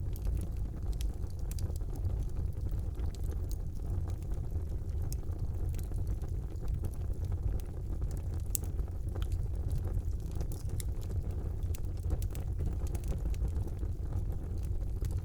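Fire burning in a fireplace: a steady low rumble with irregular sharp crackles and pops, one louder pop about halfway through.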